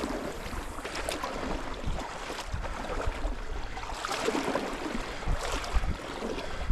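Running creek water, a steady rushing and splashing, with scattered knocks and low rumbles.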